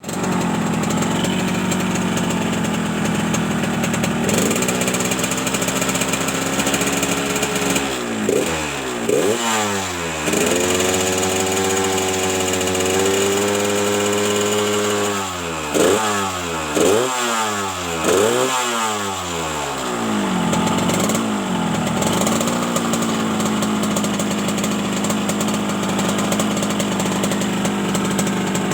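Yamaha RX-King's 135 cc two-stroke single-cylinder engine idling with the raspy, snoring exhaust note called "ngorok". The throttle is blipped in quick revs about eight to ten seconds in and again around sixteen to nineteen seconds, with one more small blip near twenty-one seconds, then it settles back to a steady idle.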